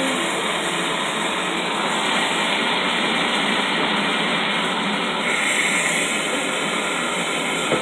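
A shower running on high, its spray pouring steadily into a portable washing machine's tub to fill it.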